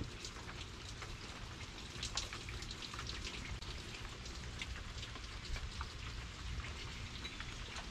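Very light rain falling, with scattered individual drops ticking on a wooden deck and plastic patio furniture.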